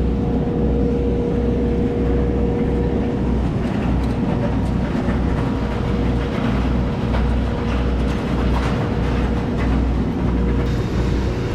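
Steady cabin drone of a Bombardier Dash 8 Q400 on the ground before takeoff: a low pulsing throb under a constant mid-pitched hum.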